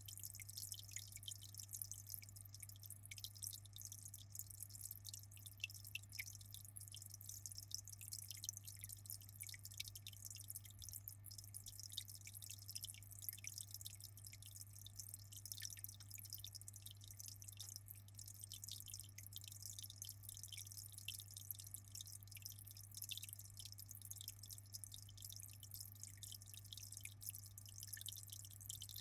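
Aquarium water trickling and dripping in a fast, irregular patter of small splashes, over a steady low hum.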